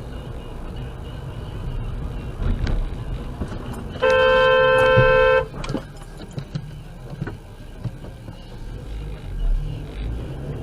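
A car horn honking once, held for about a second and a half near the middle, over the low steady rumble of road and engine noise heard from a dash camera.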